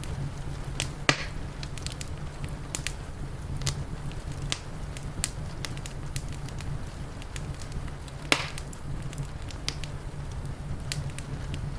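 Crackling wood fire: irregular sharp pops and snaps, with two louder cracks about a second in and about eight seconds in, over a steady low rumble.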